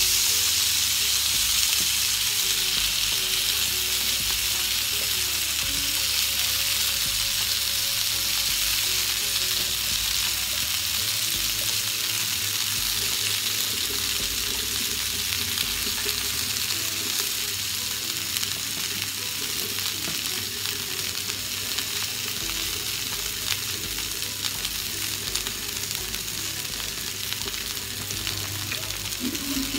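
Salmon fillets and boiled potato slices sizzling in olive oil in a ridged grill pan, with small clicks and scrapes of a spatula and fork turning them. The sizzle slowly eases off.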